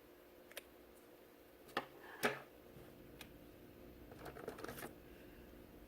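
Colouring supplies being handled on paper at a table: a few sharp clicks and taps in the first half, then a short scratchy stretch about four seconds in.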